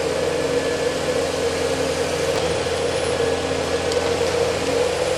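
Forestry harvester's diesel engine running at a steady pitch, an even mechanical drone.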